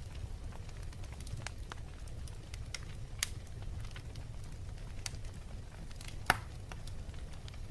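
Wood fire crackling in a fireplace: scattered small crackles over a low steady rumble, with two louder pops, the louder one about two-thirds of the way through.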